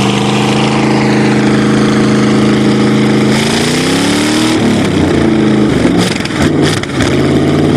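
Carbureted Chevrolet engine running on partial choke just after a cold start: a steady fast idle, then revved up about three seconds in. Afterwards the revs waver unevenly for a couple of seconds before settling back to a steady run.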